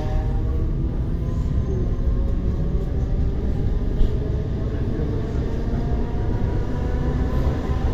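ER9T electric multiple unit running and picking up speed: a steady low rumble from the wheels on the track, with traction-motor whine rising slowly in pitch as it accelerates, and one sharp click about four seconds in.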